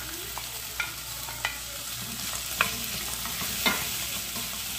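Cubed raw potatoes being added to onion frying in lard in a stainless-steel pot: a steady sizzle with about four sharp knocks and scrapes of the spatula against the glass dish and pot, the last two loudest.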